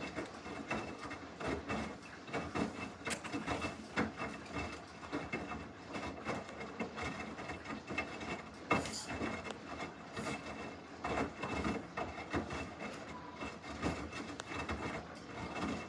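Samsung washing machine working a load through its wash cycle: a continuous, irregular rubbing and swishing of clothes in the drum, with small knocks and a faint steady high whine.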